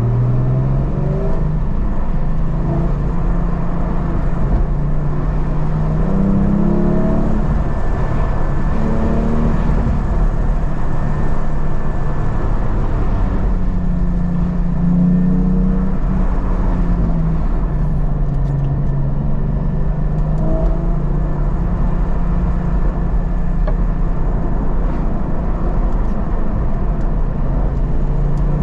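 Porsche 718 Cayman GT4's flat-six engine heard from inside the cabin, its pitch rising and falling again and again as the car accelerates and eases off. A steady low road rumble runs underneath.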